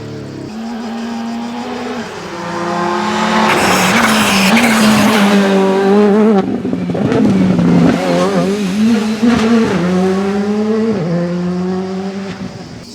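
Rally car engine at high revs, getting louder about two seconds in as the car comes close. Its pitch rises and dips repeatedly as the driver works the throttle through corners, and it fades off near the end.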